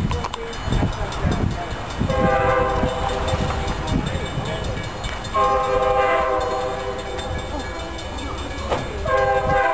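Train horn sounding three blasts, the first short, the second longer, the third starting near the end, over the low rumble of the train running.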